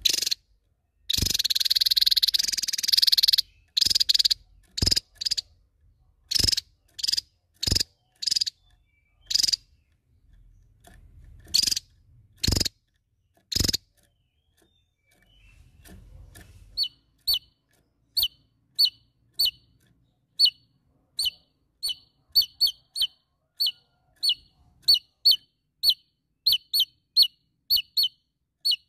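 Javan tesia calling: a sharp note, then a dense buzzy trill lasting about two seconds, then a run of loud separate call notes. After a short pause, a quicker series of thin, high, down-flicking notes follows, coming faster toward the end.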